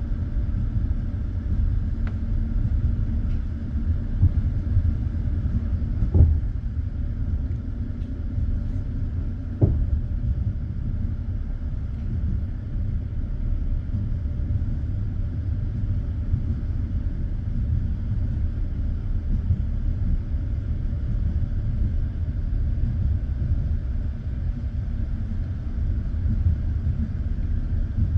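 Passenger train carriage running along the line, heard from inside: a steady low rumble of wheels on rails, with two sharper knocks about 6 and 10 seconds in.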